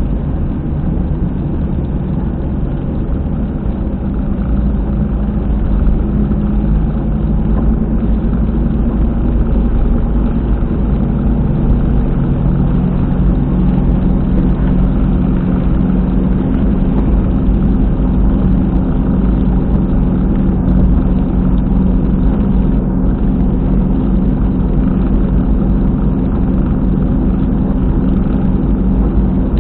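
Car at expressway speed heard from inside the cabin, with a loud, steady rumbling drone from the rear wheel area, a sign that the hub bearing has failed.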